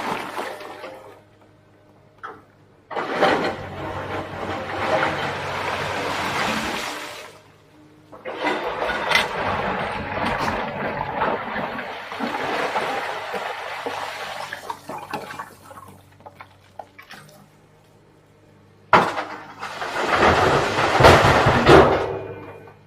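Komatsu PC350LC excavator's engine running steadily under three long rushing noises, starting about three seconds in, about eight seconds in, and with a sharp onset near the end.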